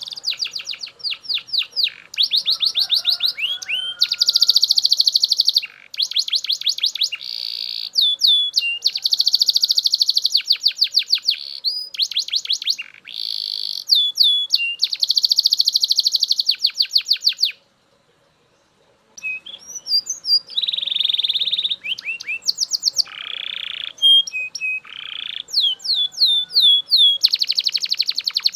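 Male Belgian canary singing loudly in fast rolling trills of rapidly repeated high notes, switching to a new trill every second or two. The song stops for about a second a little past halfway, then carries on.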